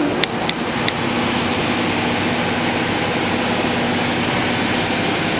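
Steady mechanical whir and hiss of machinery, with a few sharp clicks in the first second and a low hum that stops near the end.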